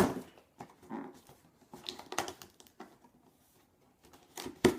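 Packaging being handled while unboxing a helmet: scattered rustling and small clicks, with a sharp knock at the start and another near the end.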